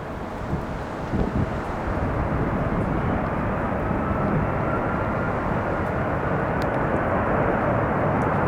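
Jet airliner engines running, a steady rushing noise that slowly grows louder, with a faint whine partway through.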